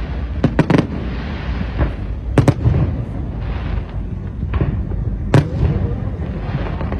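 Fireworks going off: sharp bangs singly or in quick pairs every second or two, over a continuous low rumble.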